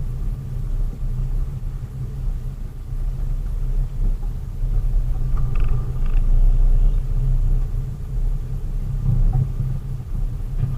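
Steady low rumble of a vehicle engine and road noise while driving, with a couple of faint short ticks about halfway through.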